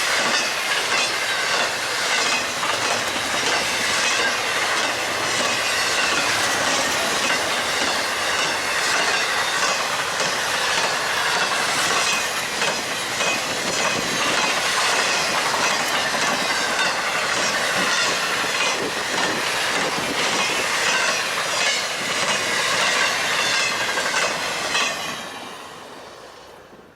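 BNSF freight train cars rolling past at speed: a steady rushing rumble with repeated clickety-clack of the wheels over the rail, dying away over the last couple of seconds.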